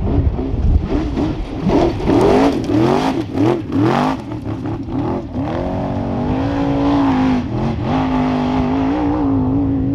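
Trophy truck engine revving hard, its pitch swinging up and down several times as the throttle is worked, then held at a steady high pitch for the last few seconds.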